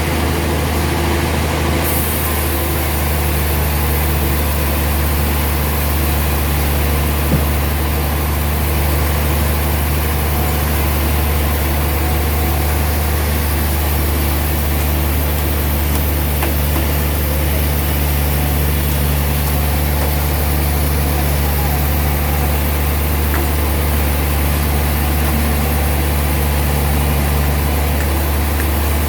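Sawmill machinery running steadily with a deep, even hum and no change in speed. A single light knock about seven seconds in.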